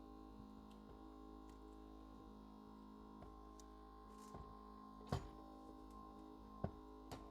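A few short, sharp ticks, the loudest about five seconds in, from a fine screen-cutting wire being sawed through a phone's cover glass, over faint steady background music.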